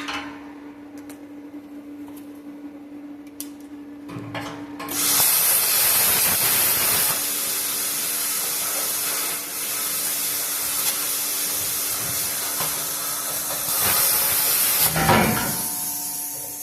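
Bestarc plasma cutter cutting through exhaust pipe: a loud, steady hiss of the arc and air jet that starts about five seconds in and stops near the end. A steady low hum runs underneath.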